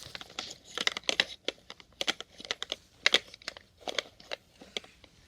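Plastic syringes being rolled and knocking against one another, in irregular clusters of sharp clicks and light rattles.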